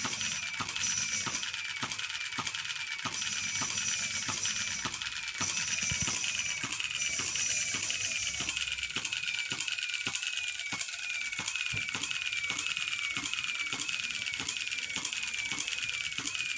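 Model hit-and-miss engine running, a steady clatter of sharp mechanical clicks at about three a second.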